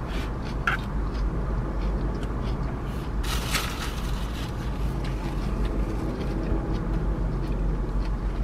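Car engine idling with its air-conditioning fan blowing, a steady low rumble heard inside the cabin. Small clicks from a plastic fork and bowl come and go, with a brief hissing rustle about three seconds in.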